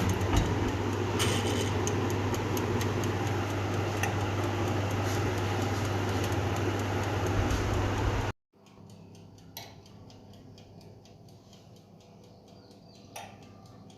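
Oven running with a steady low hum and faint ticking. About eight seconds in it cuts off abruptly to quiet room tone with a couple of soft clicks.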